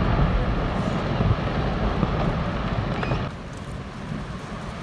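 Loud, low rumbling roar of glacier ice collapsing into the sea and the surging wave it raises, dropping away sharply about three seconds in.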